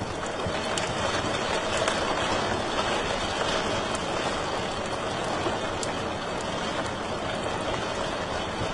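Wood fire burning in a fireplace: a steady rushing hiss with scattered small crackles and pops.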